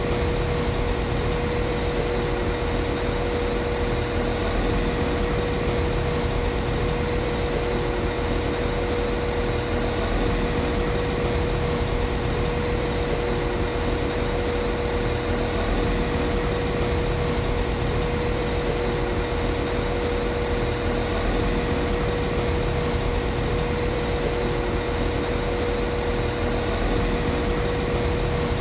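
Class 195 CAF Civity diesel multiple unit's underfloor diesel engine idling steadily, with a constant high hum held on one note above the rumble.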